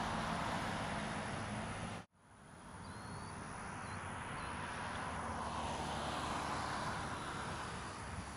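Steady outdoor background rush with a low rumble, cut off abruptly about two seconds in and fading back in, swelling slightly later on. A few faint, short bird chirps come through a second or two after the cut.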